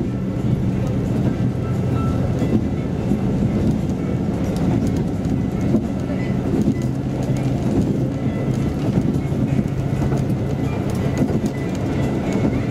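KiHa 185 series diesel railcar running along the line, heard from inside the car: a steady low diesel engine drone with the wheels clicking over the rail joints.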